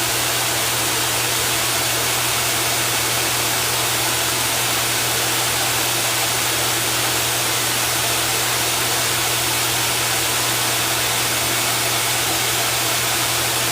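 Steady machine noise: an even rushing hiss with a low hum underneath, unchanging throughout.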